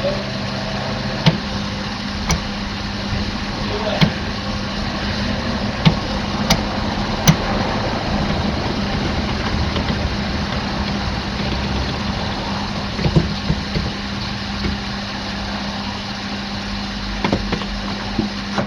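Ford Crown Victoria police car's V8 engine running with a steady hum. A scattering of short sharp clicks or knocks sounds over it, most in the first seven or eight seconds.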